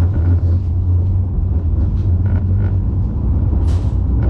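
Tram running on its rails, a steady deep rumble, with a brief hiss nearly a second before the end.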